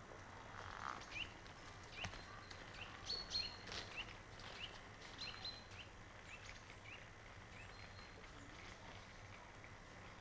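Small birds chirping in the park trees: short, rising chirps repeated irregularly with a few brief high whistles, busiest in the first few seconds and thinning out later. A few soft clicks come between about two and four seconds in.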